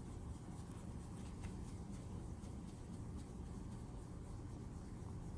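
Faint rubbing of a polish-laden cloth rag buffed in circles on the clear plastic window of a Kenner Knight 2000 toy car, over a low steady room hum.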